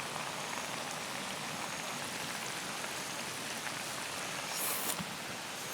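Steady rushing of a mountain stream, with a brief light clink near the end.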